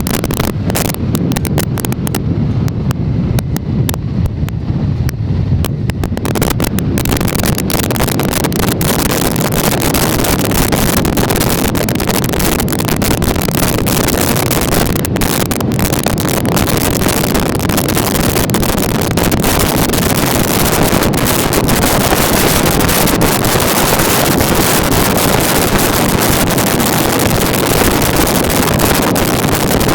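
Loud steady wind rush on the microphone of a moving motorcycle, with crackling buffets for the first few seconds.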